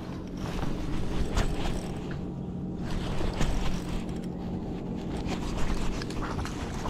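Boat motor humming steadily, with a few faint clicks over it.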